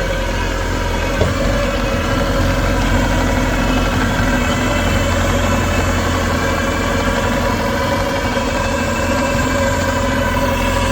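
Bobcat T590 compact track loader's four-cylinder Kubota diesel engine running steadily, still cold shortly after a cold start.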